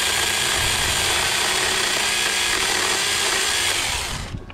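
Battery-powered Saker mini chainsaw running at a steady whine as it cuts into a tree branch, then cutting off about four seconds in.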